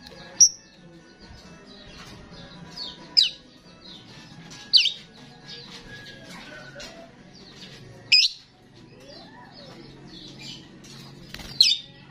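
Starling singing: a steady run of soft, high chattering notes, broken about every two to four seconds by a loud, sharp whistled call that sweeps downward, five in all.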